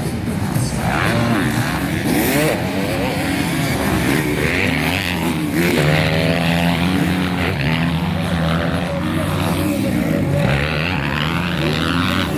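Several MX2 motocross bikes racing, their engines revving up and down in overlapping rising and falling notes, with one bike holding a steadier note through the middle.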